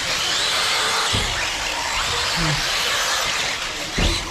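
Electric RC off-road cars running around a dirt track: a steady whine from their motors with faint rising and falling pitch, and tyres on dirt. There is a short low thump about a second in and a louder one about four seconds in.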